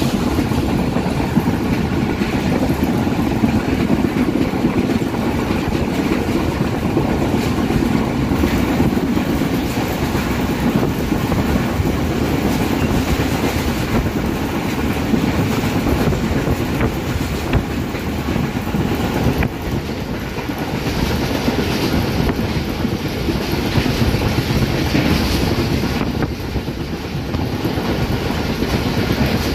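Train carriage rolling along the track, heard from inside the moving coach: a steady rumble of wheels on rail with the clickety-clack of wheels passing over rail joints.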